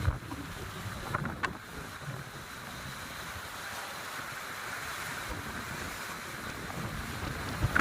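Steady seaside wind on the microphone with the wash of the sea, uneven low rumbling under a constant hiss, and a couple of faint clicks a little over a second in.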